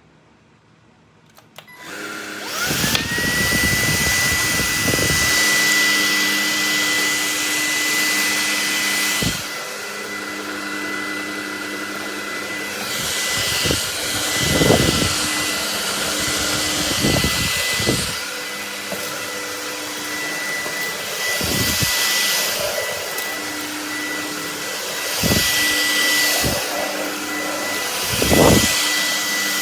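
Bulelink cordless stick vacuum switched on about two seconds in: its motor spins up to a steady high whine and keeps running. The rush of suction rises and falls, with occasional low knocks.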